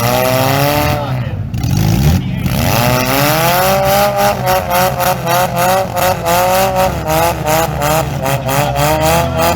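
Car engine revving over and over, its pitch rising and dropping with each blip of the throttle, with a rapid crackle through the second half.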